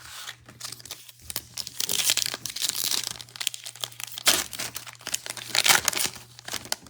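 Foil wrapper of a football trading-card pack being torn open and crinkled by hand, in irregular crackling bursts, loudest about two seconds in and again near the end.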